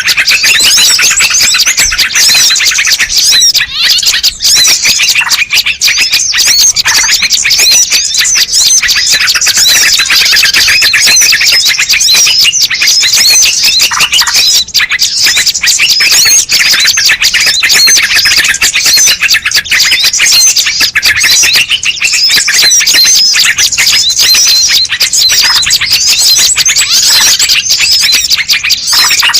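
A loud, dense chorus of many small birds chirping and trilling without a break: a bird-lure (pikat) recording played to draw wild birds in.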